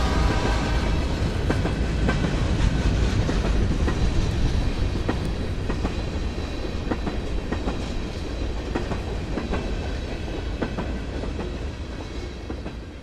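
Open-top freight hopper cars rolling past, with a steady rumble and wheels clicking over rail joints. The sound fades near the end as the last car goes by.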